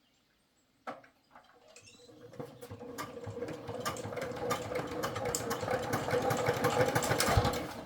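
A small motor-driven machine starts after a click, then runs with a steady hum and a rapid clatter, growing louder, and drops off near the end.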